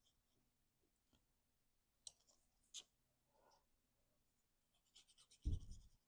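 Faint handling of cut cardstock pieces during gluing: scattered small paper clicks and a brief rustle, then a cluster of ticks and a soft low thump on the work surface about five and a half seconds in.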